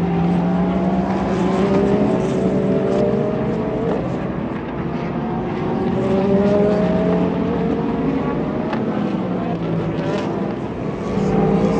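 Several IMSA sports-car racing engines running at high revs, overlapping. Their pitch climbs slowly over a few seconds as they pull through the gears, and a fresh climb starts about four seconds in and again near the end.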